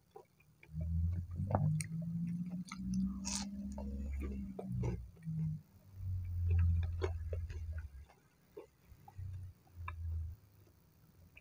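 Close-miked chewing of batter-fried tempeh: small crisp clicks from the crunchy coating over dull low mouth sounds that come and go.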